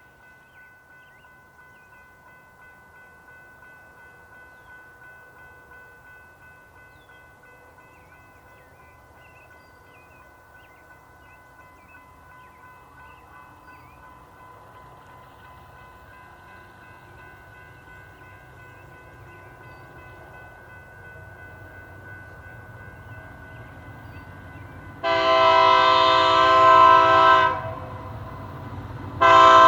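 Freight train approaching with a low rumble that builds over the last several seconds, then a multi-chime locomotive horn sounds a long blast and starts a second one near the end, a grade-crossing signal. Before that, a steady high ringing tone carries on under the rumble.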